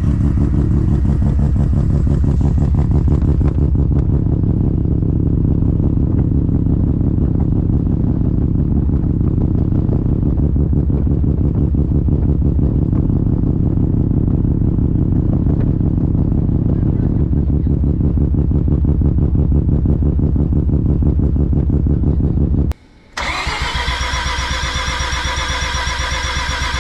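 Semi-peripheral-port Mazda RX-7 FD twin-rotor engine idling with a rapid, choppy exhaust pulse. Near the end the sound cuts out briefly, then a steady running sound with a higher tone follows.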